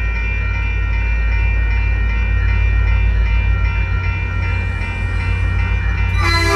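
Caltrain diesel locomotive pulling out of the station with a heavy, steady engine rumble. Its bell rings over the rumble, then a loud horn blast starts near the end.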